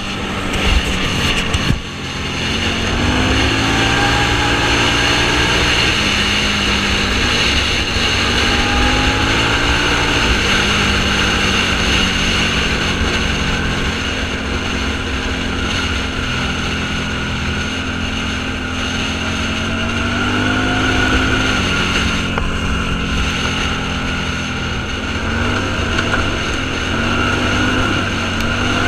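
Off-road vehicle's engine running under load, its pitch rising and falling several times as it speeds up and shifts, over steady road and wind noise.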